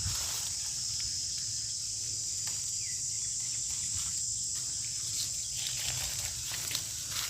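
Steady high-pitched drone of insects, with faint scattered rustles and steps beneath it.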